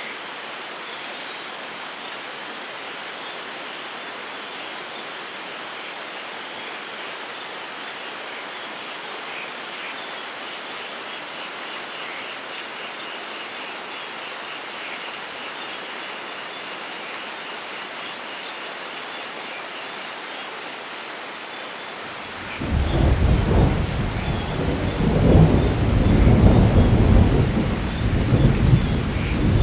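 Steady rain falling. About three-quarters of the way through, a loud, deep rolling thunder rumble breaks in and keeps going.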